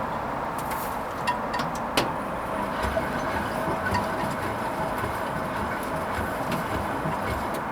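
Hoover Vision HVP16 washing machine running a Silks 30 wash: steady motor and drum noise with a faint whine and scattered light clicks.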